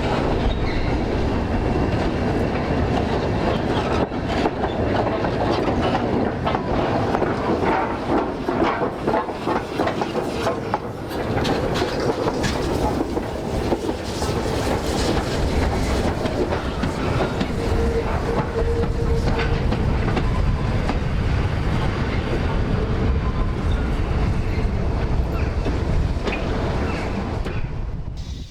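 A train passing close by, its wheels clattering over the rail joints in a steady run of clicks. It cuts off suddenly at the end.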